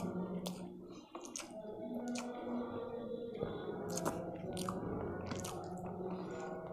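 Close-miked chewing and wet mouth clicks from eating spiced masala rice by hand, with soft squishing as fingers gather rice from a steel plate.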